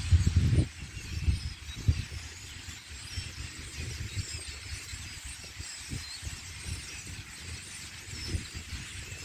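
Many birds in a flock squeaking and chirping faintly, over a constant low rumble and buffeting of wind on the microphone.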